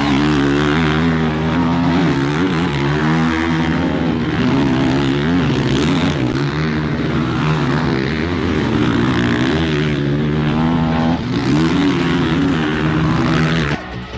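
450-class motocross bike engines running hard, their pitch rising and falling with the throttle. The sound cuts off suddenly near the end.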